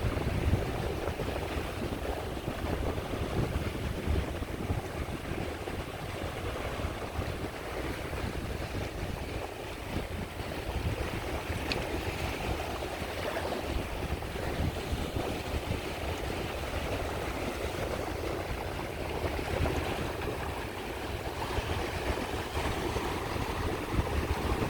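Sea waves washing steadily onto a shore, with a constant low rumble underneath.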